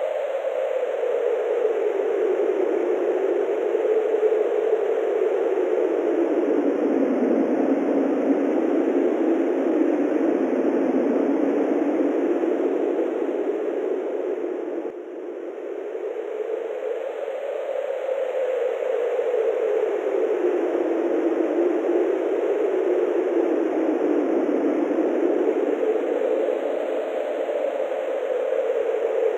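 Wind blowing in a steady whoosh, its pitch slowly rising and falling in long swells. There is a brief drop in level about halfway through.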